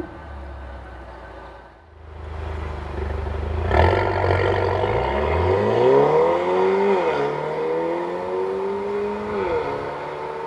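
Mercedes-Benz A250's turbocharged 2.0-litre four-cylinder engine through a Stone Exhaust valved cat-back system, running low at first. About four seconds in, a sudden loud burst of exhaust sound, then the revs climb and drop sharply twice, like accelerating through gear changes, before settling.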